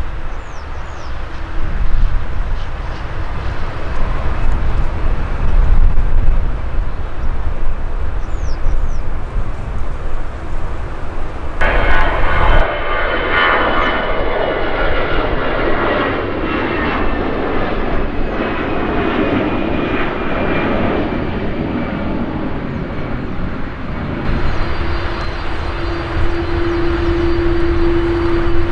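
Jet airliner engines, heard in spells that change abruptly. First a low rumble with faint chirps, then about twelve seconds in a sudden switch to loud jet noise with several whining tones that slowly fall in pitch, and near the end a steadier engine hum with a high whine.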